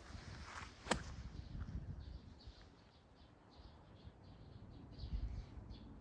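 A golf club striking a ball once, a sharp crack about a second in, with faint bird chirps afterwards.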